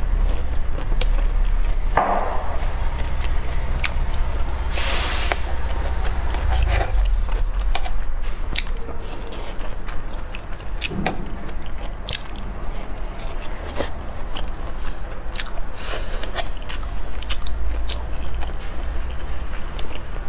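Close-miked chewing and biting of food, with many short crisp mouth clicks and smacks. A brief hissing noise comes about five seconds in, over a steady low hum.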